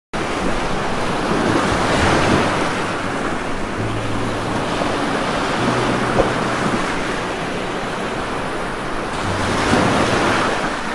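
Heavy rain falling as a dense, even hiss, swelling about two seconds in and again near the end.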